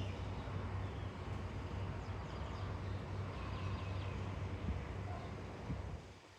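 Birds chirping faintly over a steady low rumble. The rumble drops away near the end.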